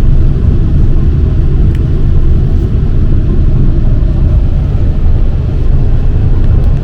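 Train rumble: a loud, steady low rumble that cuts in and out abruptly.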